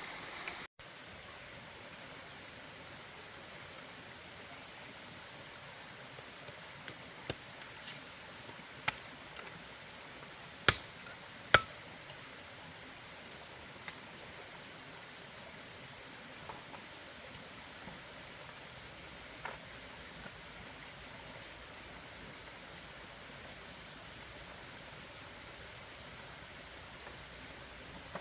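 Insects chirping in short pulsing trills over a steady high drone, with a few sharp knocks, the two loudest about a second apart near the middle.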